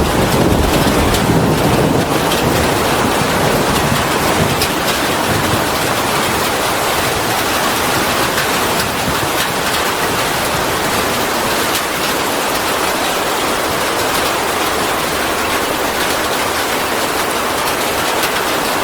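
Steady, dense rainfall, a continuous hiss of many drops with scattered individual drop ticks. A low rumble in the first couple of seconds fades away.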